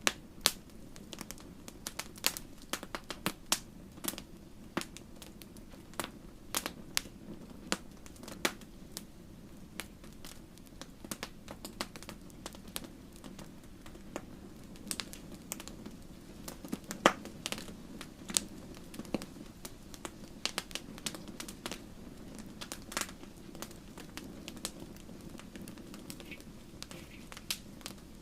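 Wood fire in a fireplace crackling, with irregular sharp pops several times a second over a steady low rumble of flame. One pop about 17 seconds in is louder than the rest.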